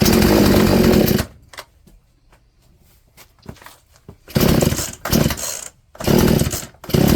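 Poulan P3416 34cc two-stroke chainsaw engine running in short loud spurts of one to one and a half seconds, three times, going quiet in between. The saw runs well at high speed with its new Hipa carburetor but will not idle.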